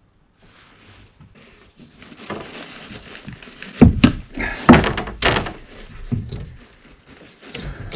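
Handling clatter of tools and PEX pipe, with several sharp knocks, the loudest about four to five seconds in.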